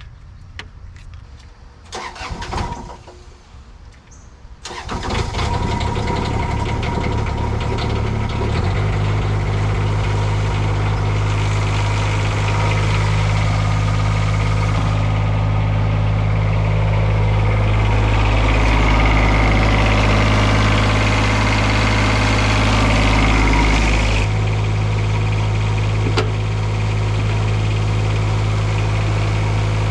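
Daewoo mini excavator's small three-cylinder diesel engine being started on its battery: the starter cranks about five seconds in, then the engine catches and settles into a steady idle. Past the middle it runs louder for several seconds, then drops back to idle.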